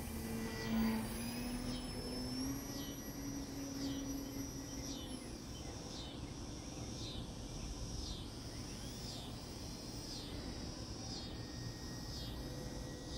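Insects chirping in the evening, a short high chirp repeating about once a second, over a faint whine from a small electric RC plane motor that rises slightly in pitch and fades out partway through.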